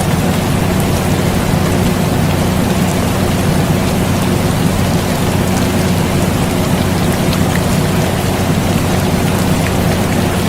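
Steady air conditioner hum layered with continuous rain, with scattered raindrop ticks over an even hiss. The blend holds unchanged throughout.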